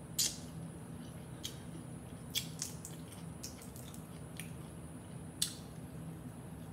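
Close-miked eating sounds from chewing boiled shrimp and crawfish: a few short, wet smacks and squelches spread out a second or so apart, over a faint steady low hum.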